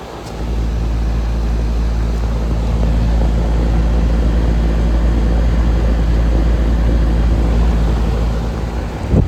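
Outdoor air conditioner condenser unit running: steady compressor hum and fan under a deep low rumble. A short loud knock comes near the end.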